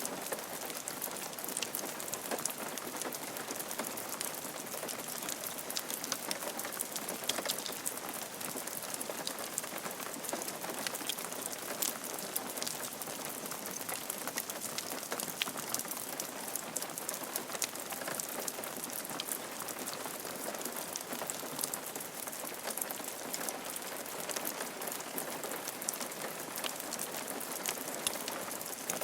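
Steady rain falling on a roof, with a dense patter of individual drops ticking sharply against it.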